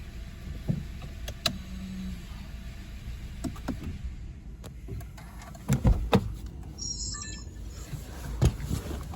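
A few clicks and knocks, then heavy thumps about six seconds in and again near the end, over a steady low rumble. A short high chirping sound comes about seven seconds in.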